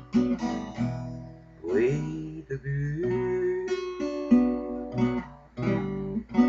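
Acoustic guitar picked and strummed with no voice, single notes and chords ringing out and a sliding note about two seconds in: the song's instrumental close.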